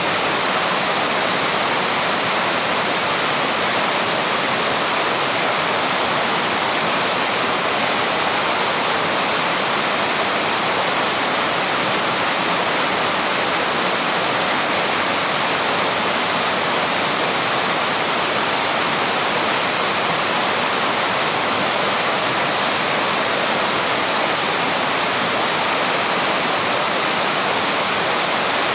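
Small waterfall running steadily, a constant rush of falling water without breaks or changes.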